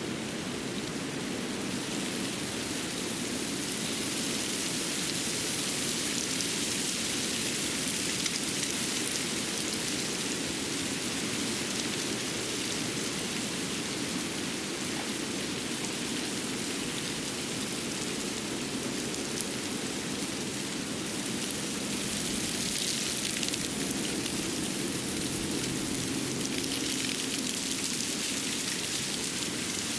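Steady hiss of water with a fine, rain-like patter, even throughout.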